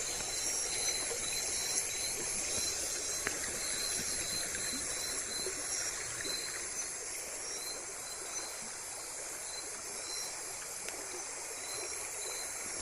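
Night insects, crickets or similar, calling steadily: a high chirp repeating a few times a second over a continuous shrill trill, with an even low hiss beneath.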